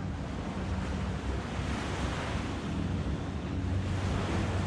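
Small waves washing onto a beach, swelling twice, with wind buffeting the microphone and a low steady hum underneath.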